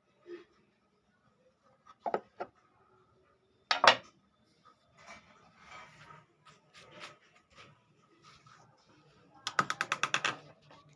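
Clicks and knocks of a harmonium being handled: a couple of knocks about two seconds in, a loud knock near four seconds, scattered small clicks, and a quick run of about ten sharp clicks near the end.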